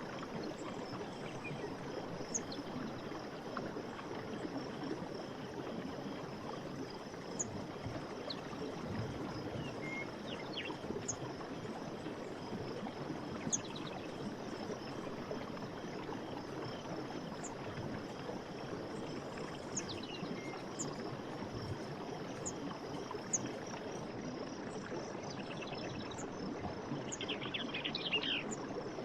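Running stream water flowing steadily, with birds giving short, high chirps now and then and a quick trill near the end.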